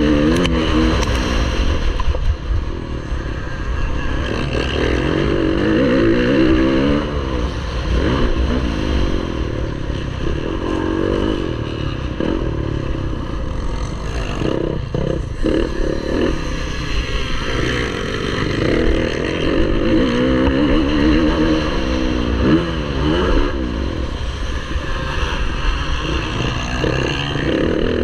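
Motocross bike engine revving hard under racing load. Its pitch climbs again and again and then falls back, as the gears are run up and the throttle is closed for corners.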